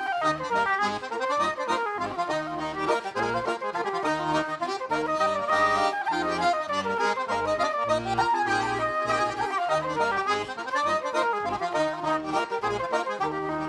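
Irish traditional dance tune played on button accordion: a quick, busy melody over a rhythmic low accompaniment.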